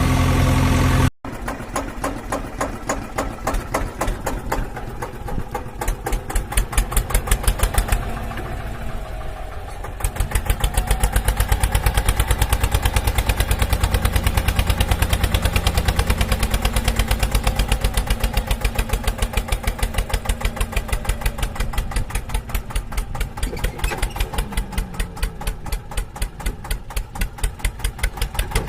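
Engine running with a steady, rapid chugging pulse, like a tractor's diesel at idle. It cuts out briefly about a second in, then carries on, swelling and easing a few times.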